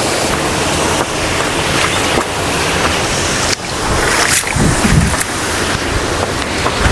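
Steady rushing roar of a waterfall, with a few low thumps around the middle.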